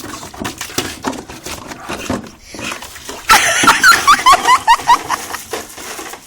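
A dog's quick run of short, high squeals, loud, about halfway through, after a few seconds of rustling and shuffling.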